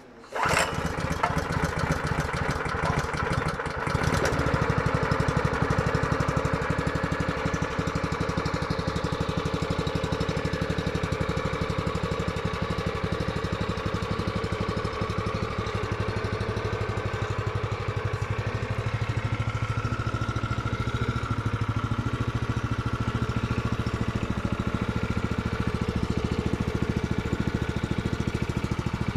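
Lancin 212cc single-cylinder four-stroke small engine starting up and catching at once, then running steadily on its first start out of the box. It gets a little louder about four seconds in and then holds an even run.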